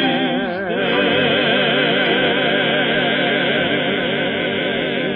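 Choir of voices holding a long closing chord with heavy vibrato, re-sung after a brief dip under a second in and fading out at the end. Heard through an old narrow-band radio recording.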